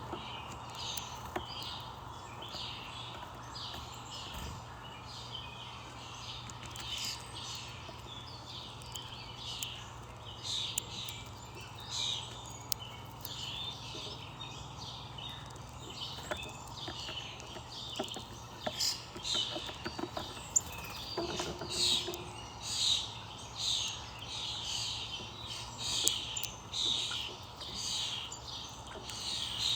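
Small birds chirping, short high chirps coming one after another, growing busier and louder about a third of the way in.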